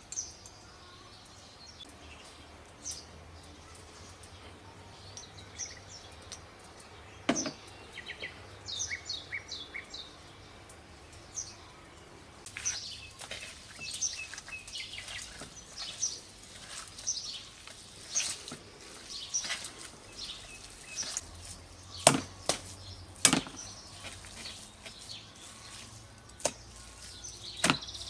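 Small birds chirping over and over in short, quick downward notes, with a few sharp knocks scattered among them, two of the loudest close together late on.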